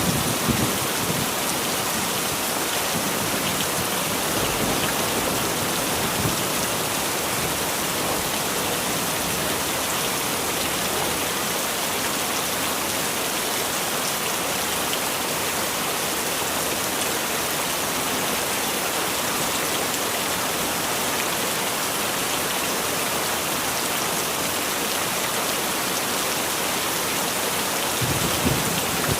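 Heavy rain falling steadily in a dense, even hiss, with brief low rumbles in the first second and again near the end.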